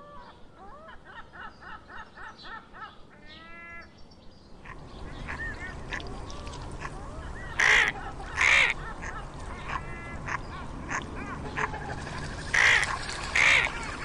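Birds calling: first a quick run of short repeated calls, about six a second, then a busier chorus of calls with two pairs of loud, harsh calls, one pair near the middle and one near the end.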